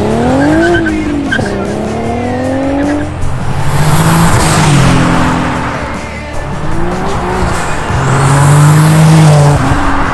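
Twin-turbocharged Nissan 370Z's 3.7-litre V6 accelerating hard: the revs climb, drop at a gear change about a second and a half in, then climb again. Two loud rushes of noise come in, around four seconds and again near nine seconds.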